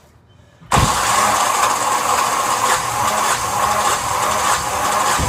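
Yanmar SB12 single-cylinder marine diesel engine running steadily after its fuel system has been bled. The engine noise comes in abruptly about a second in.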